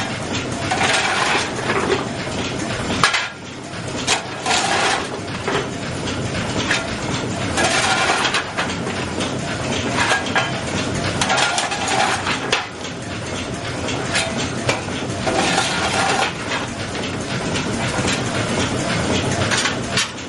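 The steam puffer VIC32's steam engine running, a continuous mechanical clatter and hiss from its moving parts that swells louder every three to four seconds.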